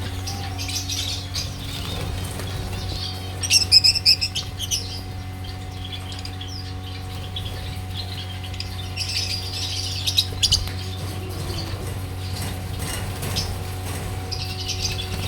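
Small cage birds chirping in bursts, with a fast, loud run of chirps about four seconds in and more clusters later, over a steady low hum.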